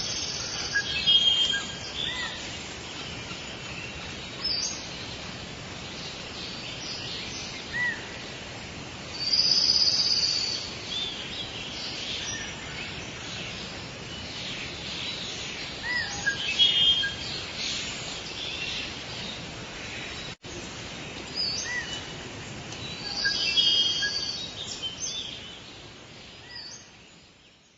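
Forest bird ambience: several birds chirping and calling over a steady background hiss, with a short gap about twenty seconds in. The sound fades out near the end.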